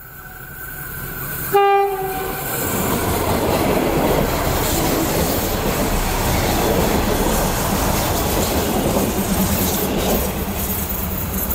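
Diesel railcar train gives a short horn blast about a second and a half in, then passes close by. Its engine and wheels rumble and clack over the rails, growing louder at first and then staying loud.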